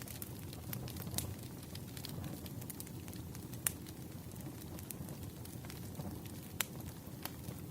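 Campfire burning with a steady low rumble and irregular sharp crackles and pops of burning wood, a louder pop near the middle and another near the end.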